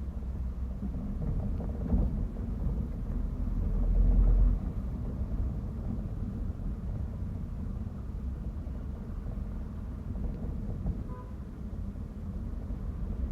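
Low engine and road rumble heard from inside a moving bus. There is a single knock about two seconds in, and a louder low rumble swells around four seconds before easing back.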